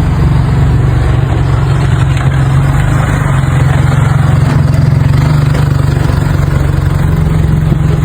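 An engine running steadily with a constant low hum and noise, no change in speed.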